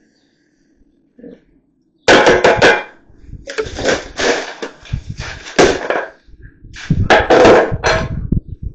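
Loud bursts of scraping and clattering with sharp knocks, starting about two seconds in and coming in several runs.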